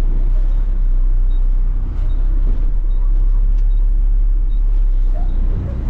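Front-load garbage truck's diesel engine running steadily, heard from inside the cab as the truck backs up.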